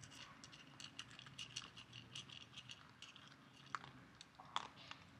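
Faint chewing: irregular small crunching clicks, several a second.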